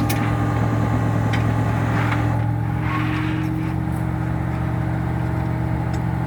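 A tow truck's engine running steadily at a constant speed, with a few brief clicks and a short rushing swell about three seconds in.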